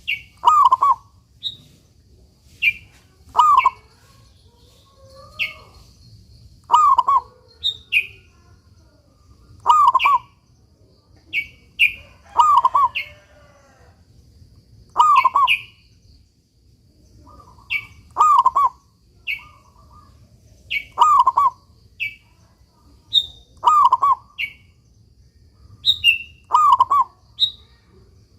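Zebra dove (perkutut) cooing over and over, a short call every second or two, with higher chirps between the coos.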